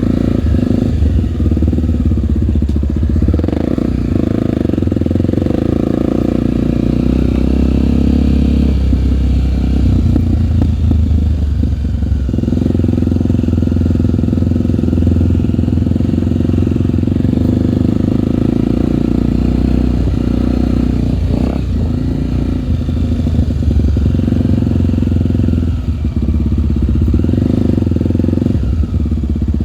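Single-cylinder four-stroke trail motorcycle engine running under way. It eases off for a few seconds about a third of the way in, then pulls steadily again.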